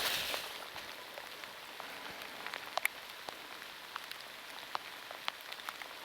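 Steady rain, with single drops ticking sharply now and then, and a short rustle right at the start.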